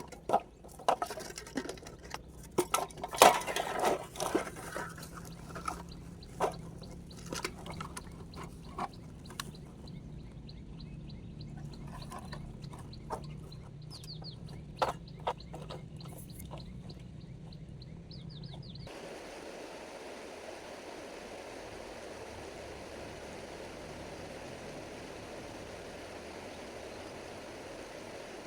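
Irregular clatter and knocks of objects being handled, thinning out over the first two-thirds. Then, after an abrupt change, a steady rush of flowing stream water.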